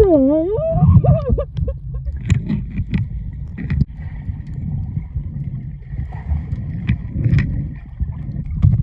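Water sloshing and a low, steady rumble as the camera moves in the water, with scattered small knocks. A brief wavering, pitched voice-like sound rises and falls during the first second or so.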